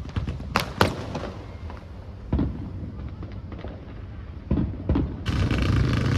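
Aerial fireworks bursting: two sharp bangs, then a few dull booms. Near the end comes a dense, fast crackling of many small reports.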